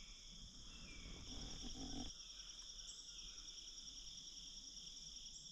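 Faint, steady chorus of crickets and other field insects: a continuous high trill with a fast pulse. A brief low rumble rises about a second in and stops abruptly about two seconds in.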